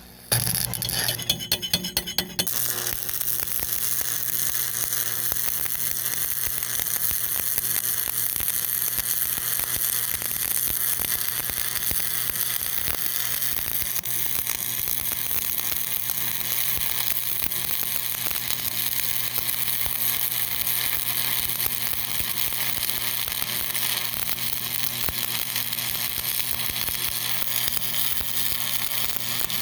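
Electric arc welding on a steel engine bracket: the arc sputters in a few short bursts for the first couple of seconds, then runs as a steady crackling sizzle.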